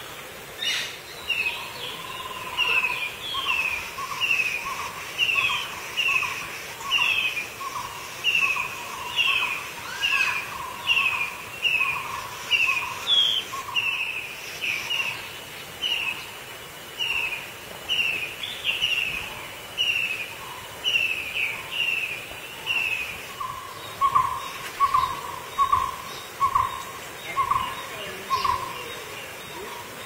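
A bird calling a long, steady series of short, down-slurred notes, about one and a half a second, each with a lower note beneath it. The series breaks briefly a little after two-thirds of the way through, comes back louder and lower for a few seconds, then stops near the end.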